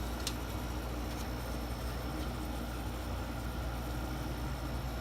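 Late-1980s Amana Cool Zone 6500 BTU window air conditioner running in cool mode: a steady low hum from its Tecumseh rotary compressor under the even rush of the blower fan.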